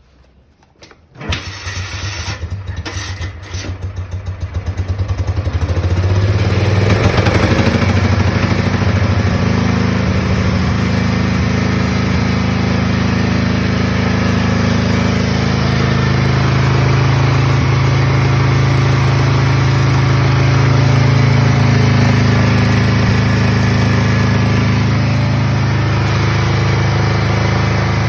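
A 1959 Ulyanovets engine starting: a few clicks, then it catches about a second in. It runs unevenly for a few seconds, picks up speed and settles into steady running.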